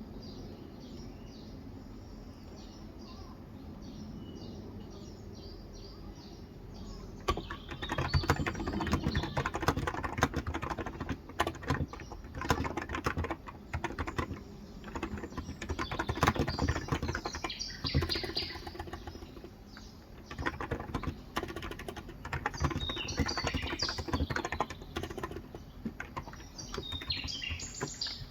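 Typing on a Cox Endeavor electrocapacitive (contactless), 35 g tenkeyless keyboard: fast runs of keystrokes starting about seven seconds in, with a short pause around two-thirds of the way through. Birds chirp in the background throughout.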